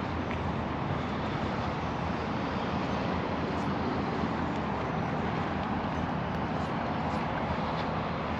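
Steady outdoor background noise: an even wash of sound with no distinct events.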